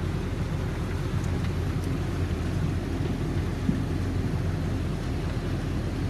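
Heavy hailstorm with rain: hail drumming in a dense, steady, low roar.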